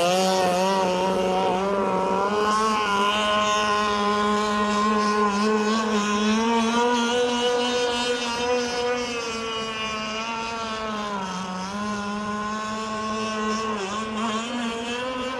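Gas RC boat's Zenoah two-stroke engine running at high revs on a speed pass, holding a steady high pitch. About two-thirds of the way through, the revs briefly dip and then come back up.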